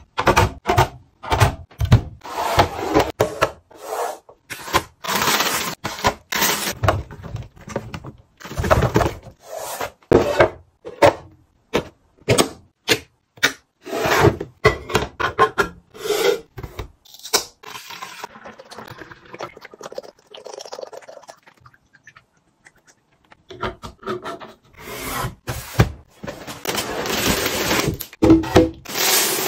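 Groceries and containers being set into a fridge: a quick run of knocks, clinks and scrapes as items go onto shelves and into the door, with a quieter stretch about two-thirds of the way through before the handling picks up again.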